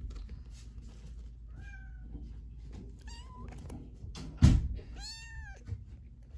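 A young kitten of about three weeks meowing three times, high and thin, the last call louder and arching up and down. A single thump comes just before the last meow.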